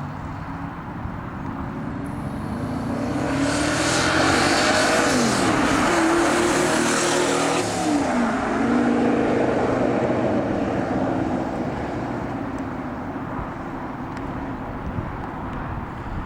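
Twin-turbo V12 engine of a kit car pulling hard, its pitch climbing, with a sudden drop in pitch about eight seconds in, then easing off and fading.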